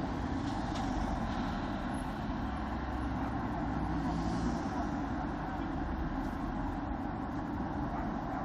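Yamaha XTZ 125 single-cylinder motorcycle engine running steadily while riding, with a constant rush of road and wind noise.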